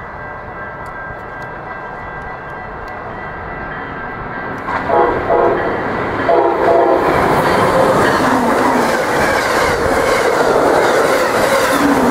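Amtrak passenger train approaching and passing close, sounding its horn: a held horn chord, then a run of short rapid blasts about five seconds in. After that comes the loud rush and wheel clatter of the train going by, with the horn still sounding over it.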